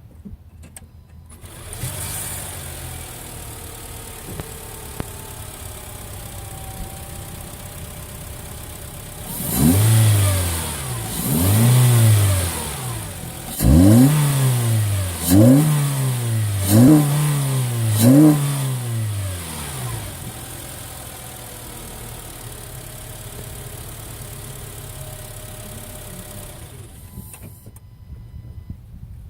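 Honda CR-Z's 1.5-litre four-cylinder engine, breathing through a K&N Typhoon cold air intake, starts up and idles. It is revved twice slowly, then blipped four times in quick succession, each rise in pitch falling straight back, then returns to idle and is shut off near the end.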